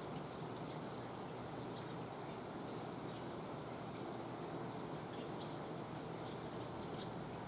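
A bird calling in short, high chirps about twice a second, varying a little in pitch, over a steady outdoor hiss.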